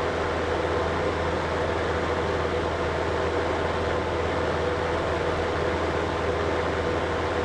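Window-unit air conditioner running steadily: an even rush of blown air with a constant low hum.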